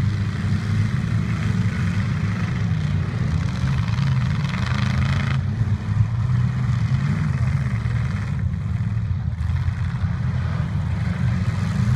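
Demolition derby trucks' engines running together in a heavy, steady low drone.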